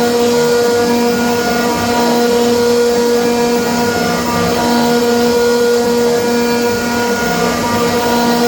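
CNC router spindle milling aluminium at 2 mm depth per pass: a steady whine with several held tones over a constant cutting noise.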